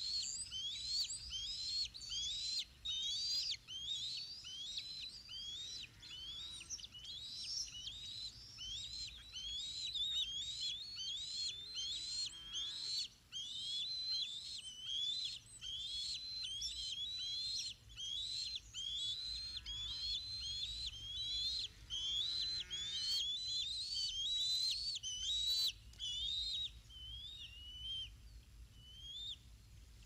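A bird calling in a fast, steady series of short high chirps, about two or three a second, each rising and falling in pitch, with a few lower, rougher calls now and then; the chirping thins out and stops near the end.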